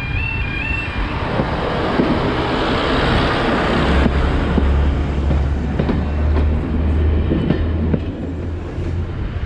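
A heritage railway train passing close by, growing louder about a second in, with a steady low drone and wheels clicking over the rail joints.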